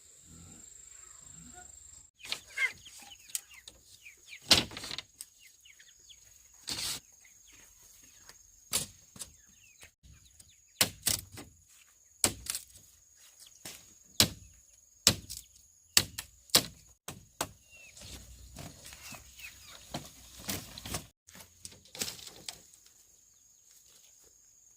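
Repeated sharp chopping strikes on bamboo, irregularly spaced about a second apart, starting about two seconds in. Insects drone steadily on one high note behind them.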